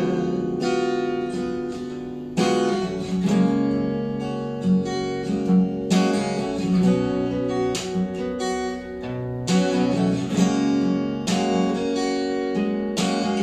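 Instrumental break of a pop ballad: acoustic guitar strumming chords that ring out, with no singing.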